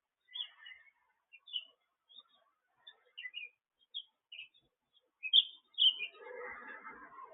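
Small birds chirping: short, high chirps scattered through, two louder ones about five and a half seconds in, then a busier, lower chatter near the end.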